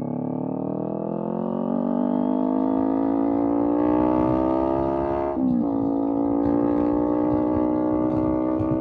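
Kawasaki Z400 parallel-twin through a Villain M1 aftermarket exhaust, revving up under acceleration. About five and a half seconds in, the pitch drops suddenly at an upshift, then the engine pulls steadily again, with wind rush.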